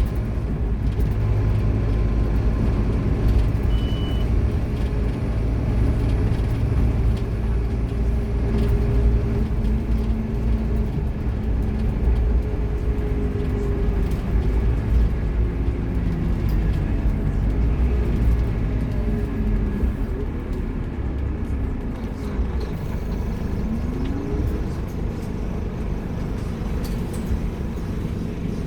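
Scania K230UB Omnilink bus's diesel engine running steadily under way, with a low rumble. Its pitch bends up and down as the bus changes speed, dipping and rising again about three-quarters of the way through.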